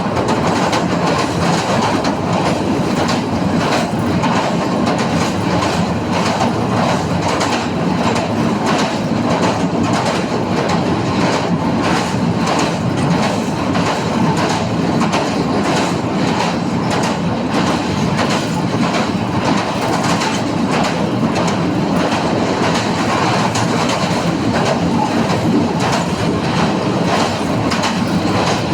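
Train crossing a steel railway bridge, a steady rumble with the wheels clattering rhythmically over the rail joints.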